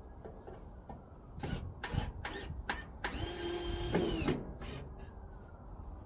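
Power drill run in several short trigger bursts, then a steady whir of about a second, driving screws to fasten the heat pump's cover back on.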